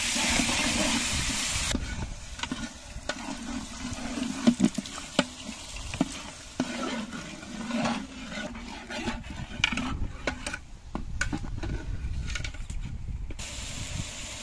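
Spice paste frying in mustard oil in a large aluminium pot: a loud sizzling hiss that cuts off sharply after about a second and a half. Then a metal ladle scrapes and knocks against the pot as the masala is stirred, and the sizzle rises again near the end.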